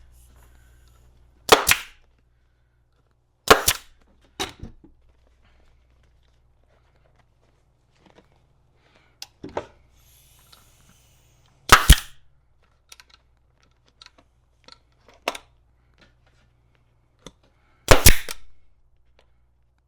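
Air-powered staple gun firing staples through a seat cover into a seat pan: four loud sharp shots several seconds apart, with a few fainter shots and clicks between.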